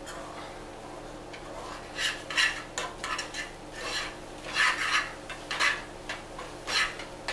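A utensil scraping and stirring eggs in a cooking pot: after a quieter start, a run of uneven scraping strokes begins about two seconds in. A faint steady hum sits underneath.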